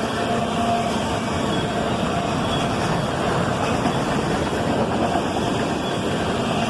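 Autorack freight cars rolling past, a steady noise of wheels on the rails.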